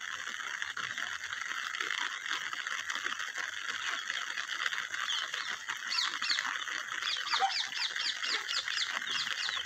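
Steady hiss of rain over a free-range flock of chickens. In the last few seconds a bird gives a quick run of short high calls, about three or four a second.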